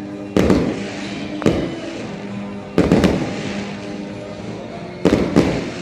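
Aerial fireworks shells bursting: about six sharp bangs, a few coming in quick pairs, each followed by a rumbling decay, with music playing underneath.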